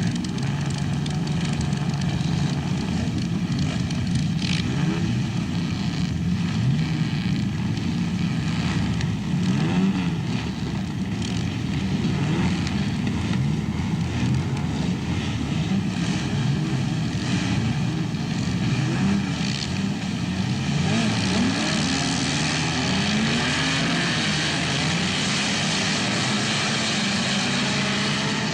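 Several racing sports car engines running hard together, their pitch rising and falling as they rev, change gear and pass by.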